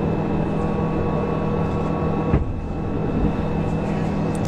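Steady rushing noise of a Soyuz rocket's ascent carried on the launch feed, with a constant hum underneath and a short click and dip about two and a half seconds in.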